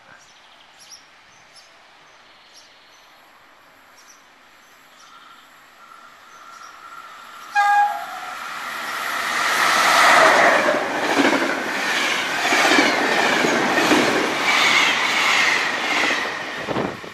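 FS E.656 electric locomotive hauling an express train gives one short horn blast about halfway through. The train then runs past, its rail noise swelling to a loud, steady roar with regular clacks of wheels over rail joints until it cuts off at the end.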